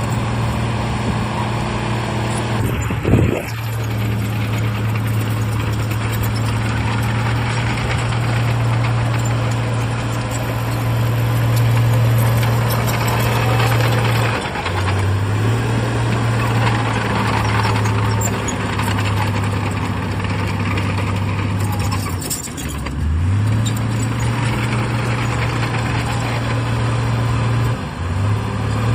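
Heavy earthmoving machine's diesel engine running at steady revs, its note dipping briefly and climbing back again about four times. A sharp bang about three seconds in.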